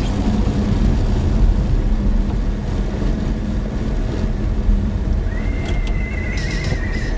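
Steady low rumble of a car driving, as heard by a dashboard camera, with a thin wavering high-pitched tone coming in about five seconds in.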